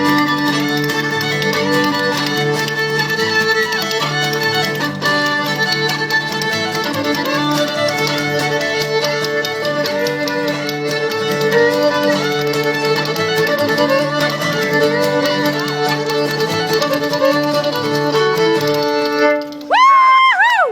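Old-time fiddle tune played instrumentally, the fiddle leading over strummed acoustic guitar; the music ends with a few sliding notes near the end.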